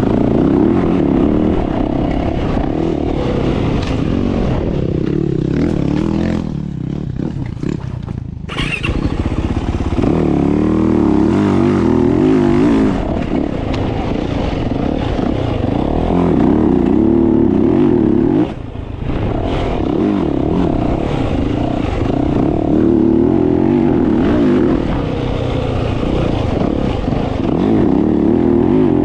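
Dirt bike engine being ridden hard, revving up and falling back again and again, with the throttle eased off for a couple of seconds about six seconds in and briefly again past eighteen seconds.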